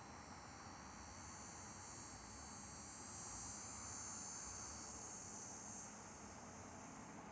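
Faint, high-pitched insect trilling, like crickets or cicadas, that swells in the middle and fades away near the end, over a steady thin high whine.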